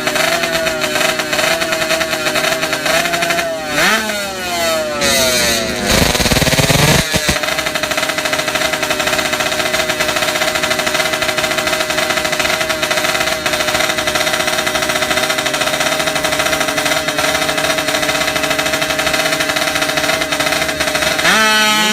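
Superbike engine held at high, steady revs with a rapid rattling pulse. The pitch swoops about four to six seconds in, there is a brief loud burst about six seconds in, and the pitch climbs again near the end.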